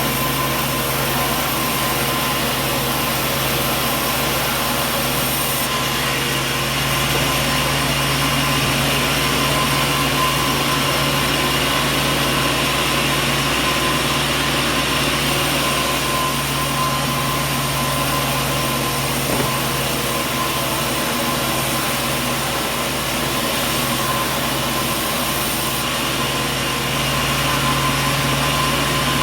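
Sawmill machinery running steadily, a constant motor hum with a steady whine over a wash of mechanical noise.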